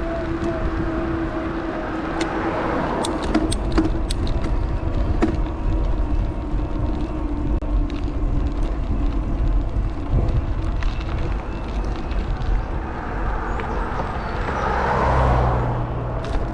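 Riding noise from an electric bike: a steady low rumble of wind and tyres, with a steady motor whine that fades after about four seconds and comes back near the end, and a run of sharp ticks and rattles between about two and five seconds. A car passes close by, swelling to the loudest point about fifteen seconds in.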